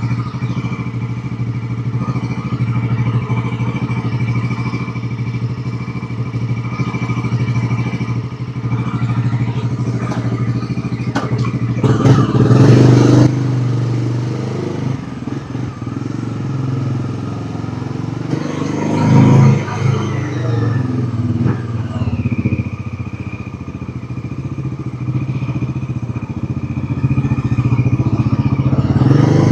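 Bajaj Pulsar NS400Z motorcycle's single-cylinder engine running steadily under way. It surges louder as it revs harder about twelve seconds in and again near twenty seconds.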